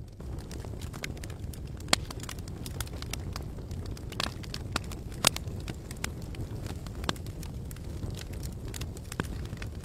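Wood campfire burning and crackling: irregular sharp pops, the loudest about five seconds in, over a steady low rumble.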